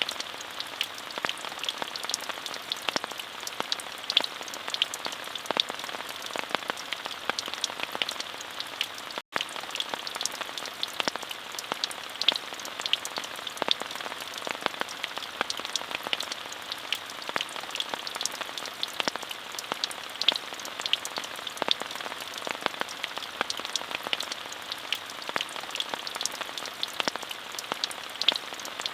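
Steady rain with a dense patter of individual drops striking a surface, the hiss strongest in the upper middle range. There is a momentary gap in the sound about nine seconds in.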